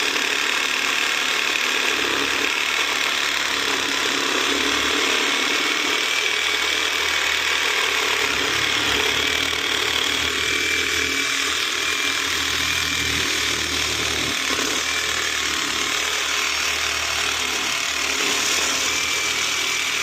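Power saw running steadily as it cuts through the copper heat exchanger of a pool spa heater, a continuous loud buzzing with a thin whine over it.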